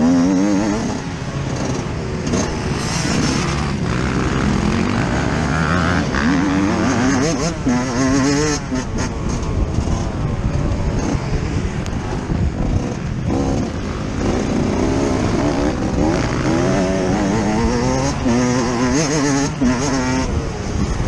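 Yamaha YZ125 two-stroke motocross engine heard on board while ridden, revving up and dropping back again and again as the throttle is opened and shut.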